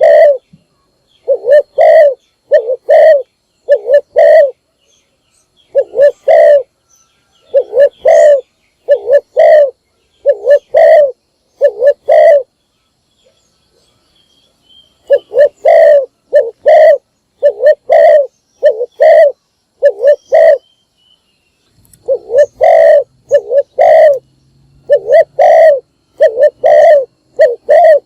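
Spotted dove cooing: repeated low coo phrases of several notes each, with a pause of a few seconds a little before halfway and a shorter one later. These are decoy-style calls of the kind used to lure wild spotted doves.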